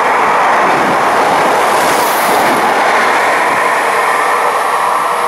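Trenitalia Minuetto electric multiple unit passing close through a station without stopping: a loud, steady rush of wheels on rail and running gear as the train goes by, with a brief higher hiss about two seconds in.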